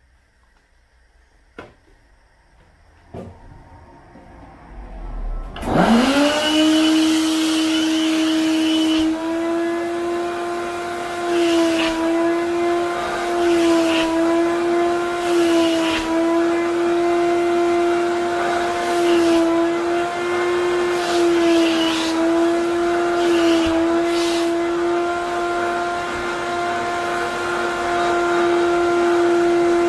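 Wet vacuum cleaner switched on: after a couple of faint clicks, its motor spins up about five seconds in and then runs with a loud steady hum, the pitch dipping and recovering slightly now and then as the load on it changes.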